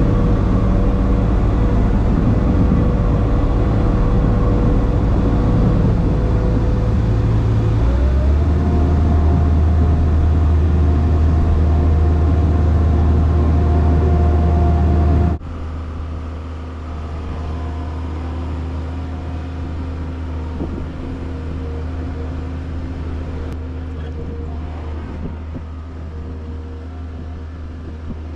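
Skid steer loader's engine running steadily under load. Its pitch steps up about a third of the way in, as if revved. About halfway the sound drops abruptly to a quieter, steady engine drone.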